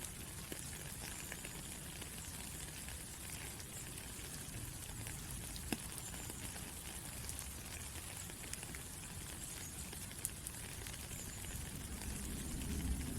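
Steady rain falling, a continuous hiss with scattered small drop ticks. The low rumble grows a little louder near the end.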